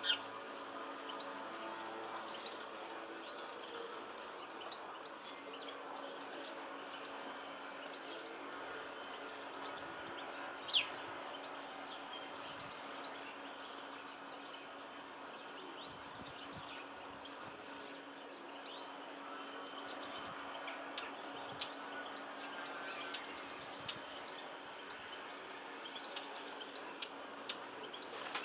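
A small songbird repeating the same short, high song phrase about every two seconds: a high note that steps down into a brief lower trill. Occasional sharp chirps come in, one loud downward-sweeping call about ten seconds in, over a steady low hum.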